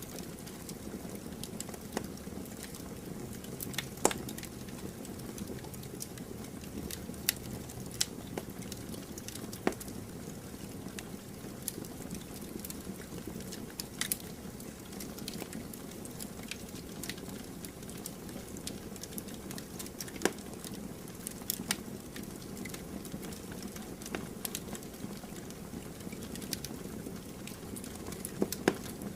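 Campfire burning: a steady low rush of flames with sharp crackles and pops at irregular intervals, a few of them much louder.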